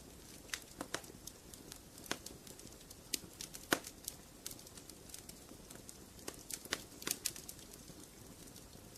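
Wood fire crackling in a fireplace: irregular sharp pops and snaps over a soft low hiss. The loudest pop comes a little under four seconds in, and there is a cluster of snaps around seven seconds.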